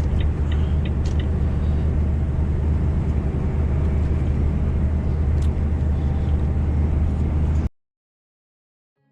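Heavy truck's engine and road noise heard inside the cab, a steady low drone with the truck loaded to about 20 tonnes. It cuts off suddenly about three-quarters of the way through, leaving silence.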